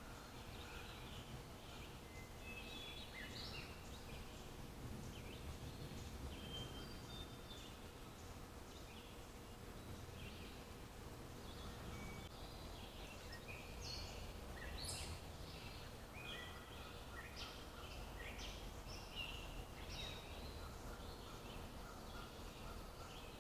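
Several small birds chirping and singing in short scattered calls and whistles, over a steady low background rumble.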